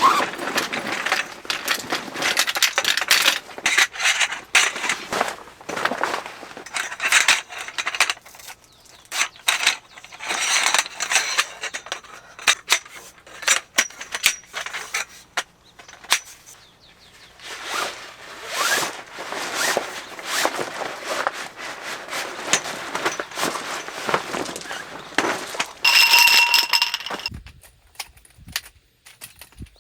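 Close handling noise of gear being worked: rustling, scraping and clinking, with a short metallic ring near the end.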